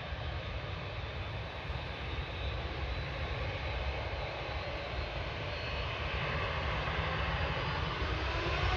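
Jet airliner's engines, a low rumble and roar that slowly grows louder, with a whine rising in pitch near the end as the aircraft draws closer.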